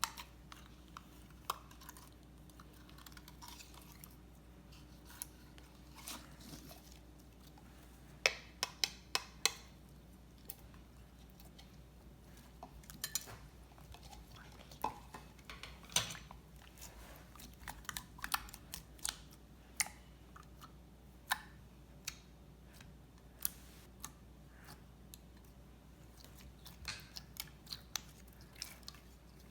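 Slime being handled and squeezed by hand, with short sticky clicks and small pops at irregular intervals over a faint steady hum.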